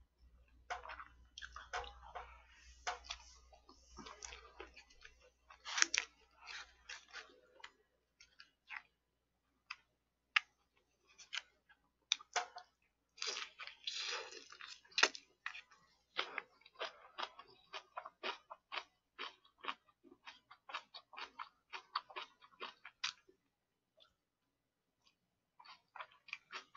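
A person chewing food close to the microphone: a quick, irregular run of short mouth clicks and crunchy chews, with a brief pause near the end.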